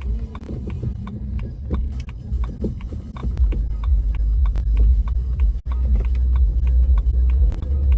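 Low, steady rumble of a car heard from inside the cabin while driving, with many small clicks and knocks over it.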